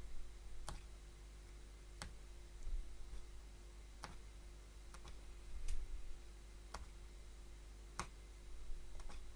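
Punchcraft hollow needle punching thread loops through tightly woven cloth, a sharp click at each stroke, about one a second at an uneven pace.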